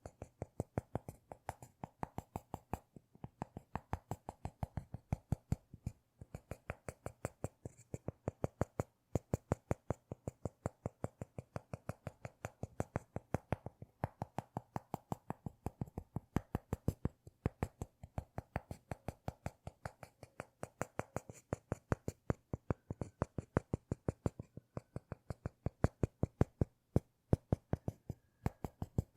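A rapid, even series of sharp clicks or taps, about five a second, made as an ASMR trigger.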